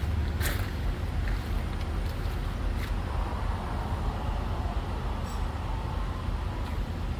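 Steady low rumble of a running motor vehicle, with a few light clicks.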